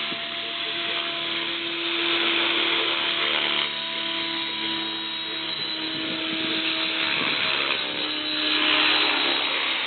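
Align T-Rex 600 ESP electric RC helicopter hovering: the motor's steady whine and the rotor's rushing hiss, with the whine stepping slightly up and down in pitch and the sound swelling a couple of seconds in and again near the end.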